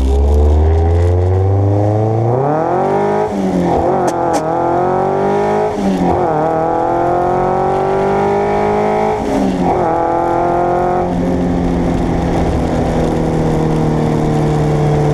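Car engine accelerating hard through the gears: its pitch climbs, drops sharply at each of three upshifts, then settles to a lower, nearly steady note as the car eases off near the end.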